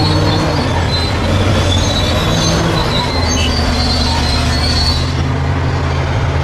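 Crawler bulldozer working: its diesel engine runs steadily under a high metallic squeal from the steel tracks.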